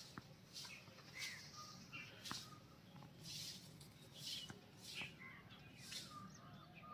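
Faint birds chirping and calling in short, scattered notes, with soft rustling strokes recurring every half second or so.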